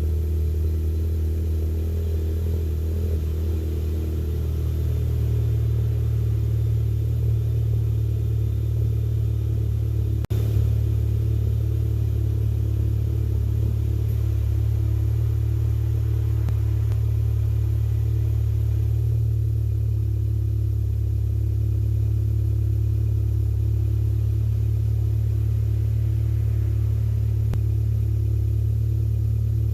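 Mk7 Volkswagen GTI's 2.0-litre turbo four-cylinder idling steadily after a cold start, heard through an APR catted downpipe and AWE Touring catback exhaust as a deep, even drone. A brief click and dropout comes about ten seconds in.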